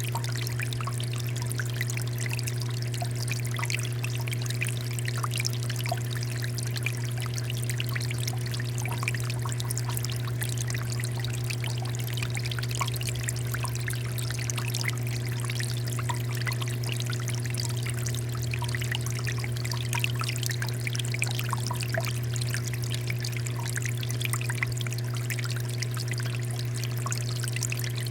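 Water fountain flowing and splashing steadily, with a continuous low hum underneath and fine droplet patter on top.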